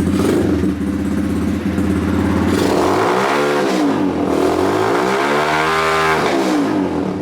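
125cc X Pro four-stroke dirt bike engine idling, revved up and back down twice, about three and five seconds in.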